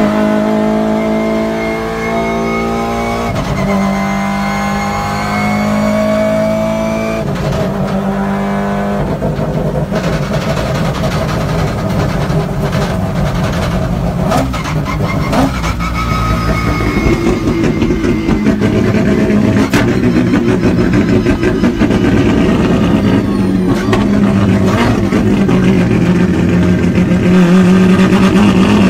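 Drift car's rotary engine heard from inside the cockpit. In the first nine seconds it climbs in pitch three times, with two sharp drops between the runs as it shifts up. It then runs hard at high revs with a rough, fast-pulsing note that grows louder toward the end.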